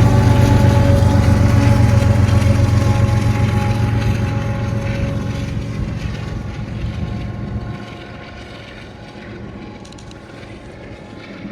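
Diesel freight locomotive passing and moving away: a steady engine drone with a few sustained tones, loud at first and fading over about eight seconds.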